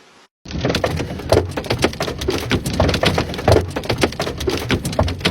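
Large hailstones pelting hard surfaces in a dense, rapid clatter of sharp impacts, starting abruptly about half a second in.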